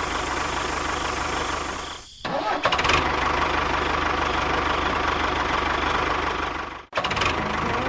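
Engine running steadily with a fast even chug, cut off abruptly twice and resuming straight after each break.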